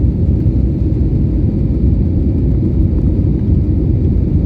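Steady low rumble of an Airbus airliner's jet engines and airflow heard inside the passenger cabin in flight.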